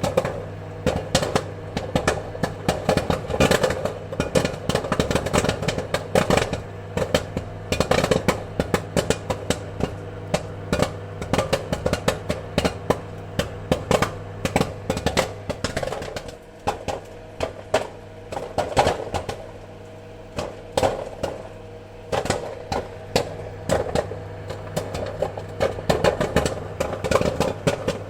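Popcorn kernels popping in quick, irregular succession, several sharp pops a second, over a steady low hum.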